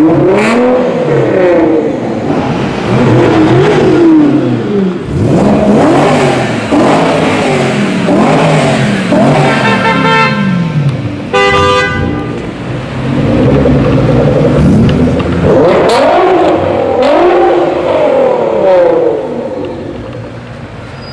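A car engine revved hard again and again, its pitch climbing and falling with each blip of the throttle. Two short car-horn blasts sound about halfway through, and the revving dies away near the end.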